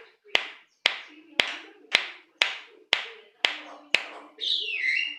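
A run of eight sharp clicks, evenly spaced about two a second, then near the end a short falling whistle-like call from a Javan myna.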